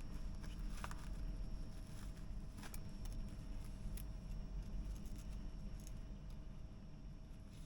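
Steady low rumble with a faint constant hum, and a few light clicks and taps of small objects being handled, about one a second or two apart early on.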